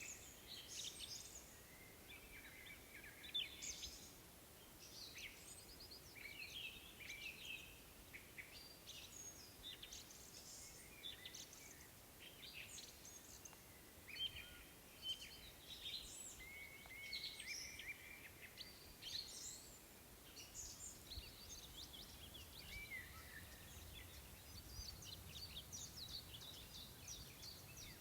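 Faint chorus of songbirds: many short, high chirps and trills from several birds overlapping, with no pause.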